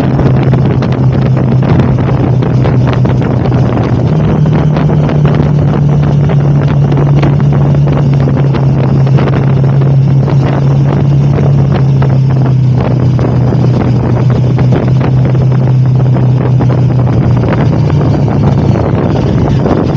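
KTM 1290 Super Adventure's V-twin engine running steadily while riding at a constant pace, with heavy wind noise buffeting the onboard microphone. The engine note steps up slightly about four seconds in.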